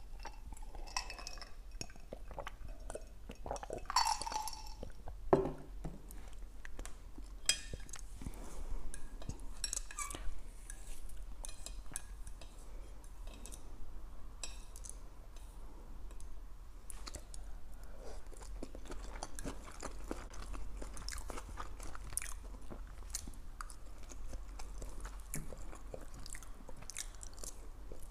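Close-miked eating sounds: wet chewing and crunching of Chinese takeout, lo mein noodles and fried General Tso's chicken, with many small mouth clicks. A sip and swallow of soda from a glass comes near the start, and a fork clicks against the plate.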